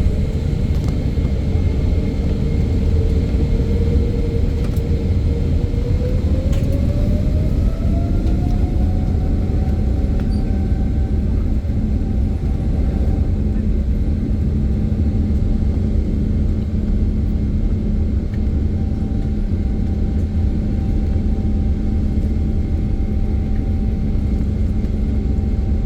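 Boeing 777-200LR's GE90 turbofan engines at takeoff power: a heavy, steady rumble with an engine whine that rises in pitch about six seconds in, then holds level as the engines reach takeoff thrust.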